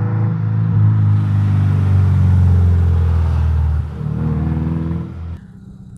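Subaru flat-four boxer engine revved up and held for about four seconds, then dropping back and easing off further near the end. It runs loud with the stock rear section of the exhaust removed.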